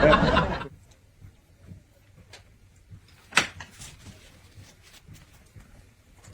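A voice trailing off in the first second, then faint scattered clicks and knocks, with one sharper knock about three and a half seconds in.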